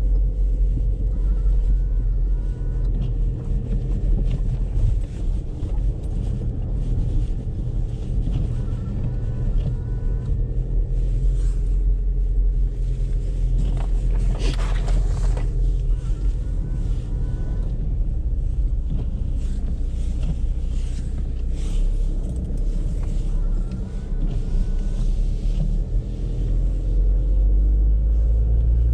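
Audi A3 on the move in snow, heard as a steady low road and engine drone inside the car. A faint short chirp comes back about every seven seconds, and a brief louder hiss passes a little past the middle.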